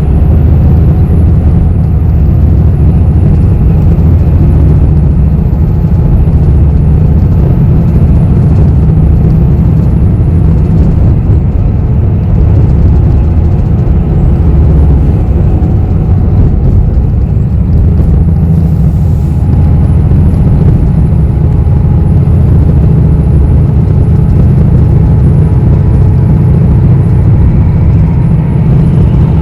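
Steady low rumble of a bus's engine and running gear, heard from inside the passenger cabin.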